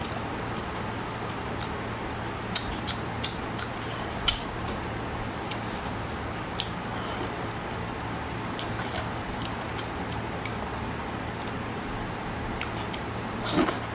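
Close-miked mouth sounds of someone chewing braised octopus: scattered short wet clicks and smacks over a steady hiss and low hum, with a louder burst near the end as a fresh piece goes into the mouth.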